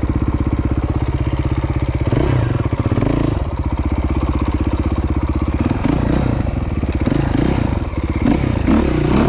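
Dirt bike engine running close to the microphone: steady for about two seconds, then revving up and down, easing off and coming back on the throttle twice.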